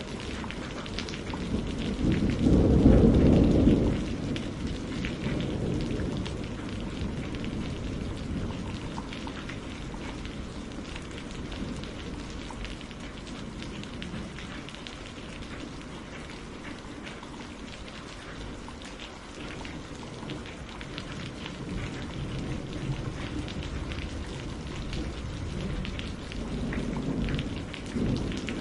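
Steady rain pattering, with a low roll of thunder a couple of seconds in and a softer rumble of thunder near the end.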